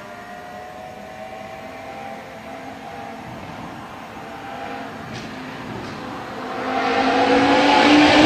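BMW M6 engine running through an iPE valved performance exhaust, its note steady at first and then growing much louder about two-thirds of the way in as the car comes on the throttle or draws closer.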